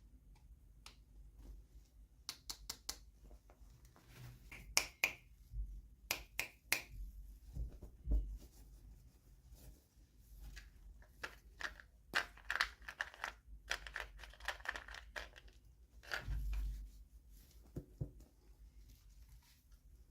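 Hands opening toy packaging: irregular light clicks, crinkles and short tearing sounds of plastic and paper, with a few louder rustles.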